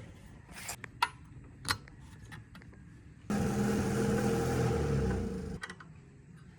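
A few light taps, then a motor-driven machine starts suddenly, runs steadily for about two seconds and stops.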